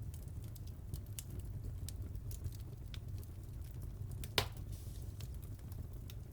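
Wood fire crackling in a fireplace: a steady low rumble of burning with scattered small crackles, and one sharp, loud pop about four seconds in.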